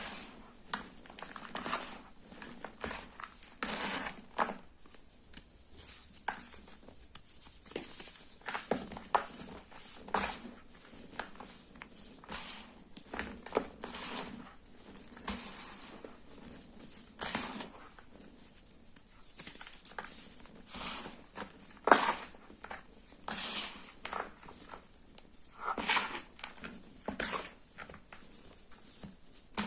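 Sports chalk being crushed and crumbled: a long, irregular run of soft crunches and crackles, the loudest about two-thirds of the way through.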